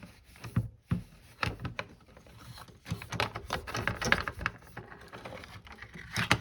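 A cloth wiping and scrubbing inside an old radio's case: irregular rubbing and rustling, with light knocks as the set is handled.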